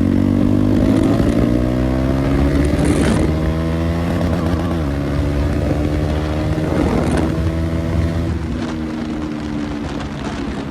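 KTM 390 Duke single-cylinder engine running with no exhaust muffler, the motorcycle pulling steadily under way; the engine note drifts slowly up and down in pitch with a few brief dips as the throttle changes.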